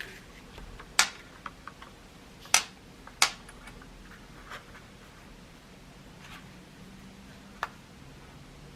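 Craft papers being handled and laid on a work surface: four sharp taps, with a few fainter ticks and slight rustling between them.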